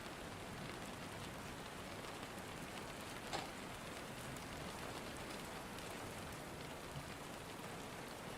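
Steady rain falling, an even hiss of drops, with a single sharper drop or tap about three and a half seconds in.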